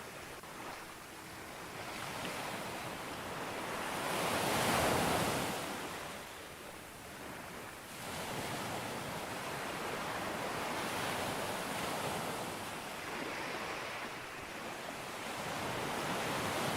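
Ocean surf breaking on a beach: one wave surges up and peaks about four to five seconds in, eases off, then another longer wash of surf builds from about eight seconds.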